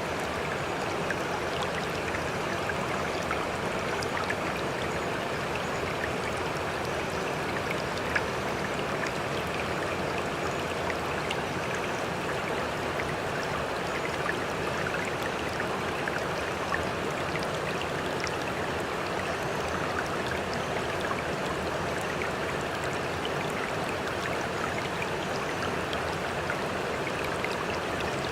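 Steady, unbroken sea water lapping and trickling, full of small splashes and drips, with one slightly sharper splash about eight seconds in.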